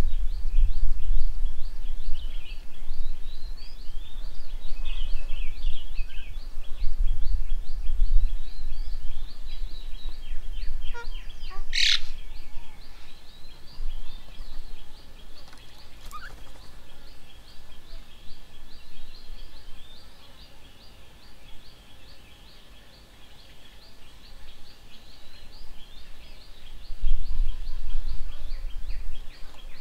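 Birds calling around a garden bird table: a steady run of short, high chirps repeated about four times a second, with one loud, sharp call about twelve seconds in. A low rumble, likely wind on the microphone, is loudest in the first third and again near the end.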